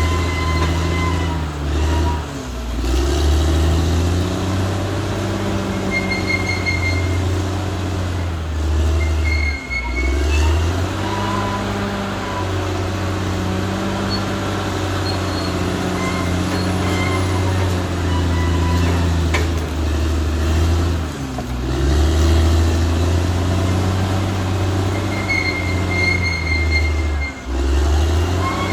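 Caterpillar D6R XL bulldozer's diesel engine working under changing load, its note sagging and recovering about four times. Short high-pitched squeals come and go over the engine.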